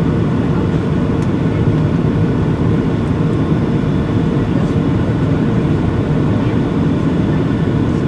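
Steady cabin drone inside a Boeing 737-700 in flight: the low, even rush of airflow and the CFM56-7B turbofan engines, unchanging throughout.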